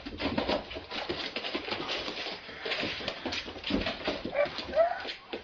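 A dog whimpering, with a few short rising whines near the end, among scattered clicks and rustling.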